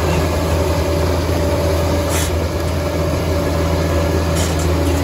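Liebherr crawler bulldozer's diesel engine running steadily under load, a constant low drone, as the blade pushes a heap of rock and soil.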